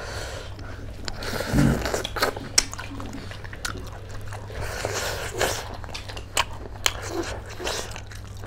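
Close-miked chewing and crunching of food eaten by hand, with scattered sharp smacks and clicks, over a steady low hum.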